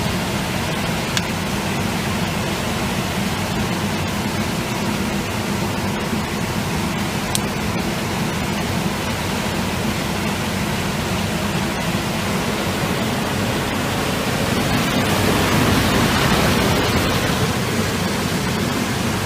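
Steady rushing noise of a bouncy castle blower forcing air into a fire-brick forge fire, growing louder for a couple of seconds about three quarters of the way through.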